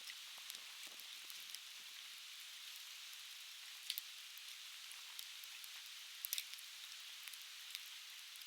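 Softwood firewood burning and crackling, with scattered sharp pops, a loud one about four seconds in and a quick cluster just past six seconds. Underneath is the faint steady hiss of a river.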